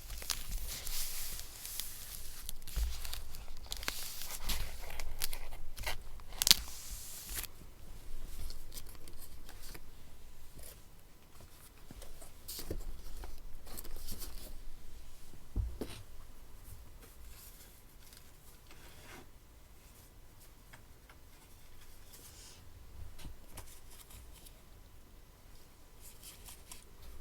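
Paper being torn and handled, with crinkles and snips, busiest in the first several seconds and with a sharp click about six seconds in. A second, quieter spell of paper handling comes around the middle, then only faint scattered ticks and rustles.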